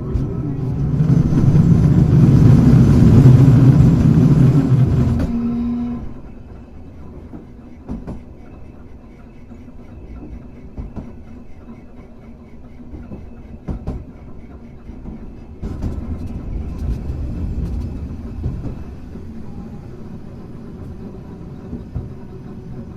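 Running sound aboard Hankai Tramway car 351: a loud, dense rumble for the first five seconds or so. It then falls away to quieter steady rolling, with occasional sharp clicks and knocks of the wheels over rail joints.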